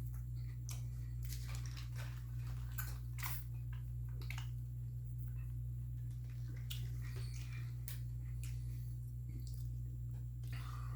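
Close-miked chewing, with short moist mouth clicks and smacks scattered throughout, over a steady low hum.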